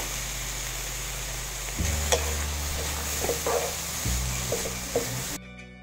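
Shredded chicken and chopped vegetables sizzling in a hot nonstick wok, stirred with a wooden spatula that scrapes and knocks against the pan a few times. The sizzling cuts off suddenly near the end, leaving background music.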